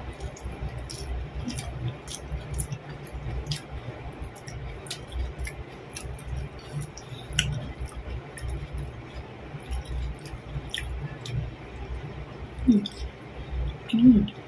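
Close-up chewing and wet mouth smacks and clicks of a person eating soft fried eggplant and rice with raw sambal. Two louder short mouth sounds come near the end, the second as a strip of eggplant is drawn into the mouth.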